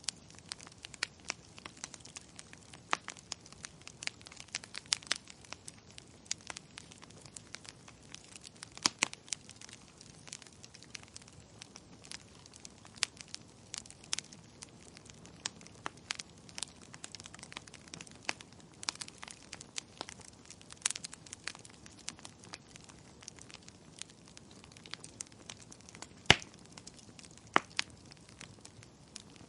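Wood fire in a fireplace crackling, with irregular sharp pops over a soft hiss; the loudest pop comes about 26 seconds in.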